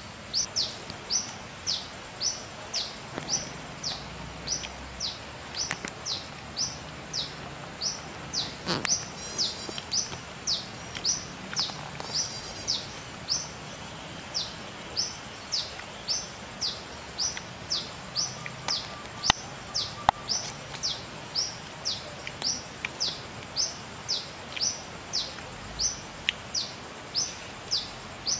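A bird calling steadily: a short, high note sliding downward, repeated about twice a second. Two sharp clicks stand out a little past halfway.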